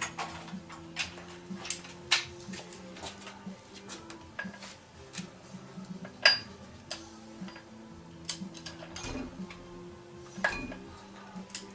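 Irregular metallic clinks, taps and knocks of hand tools and bolts on steel parts, with a few louder sharp knocks among them.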